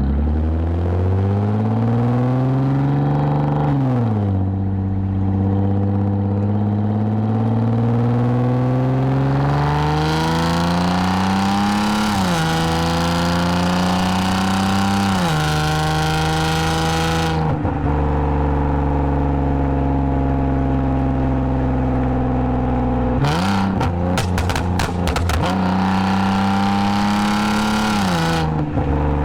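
2010 Lexus IS250 AWD's 2.5-litre V6 through a full aftermarket exhaust with valved mufflers, pulling through the gears: the engine note climbs and drops sharply at each upshift several times, then holds steady while cruising. A short run of rapid pops comes about three-quarters of the way in, before it pulls again and shifts once more near the end.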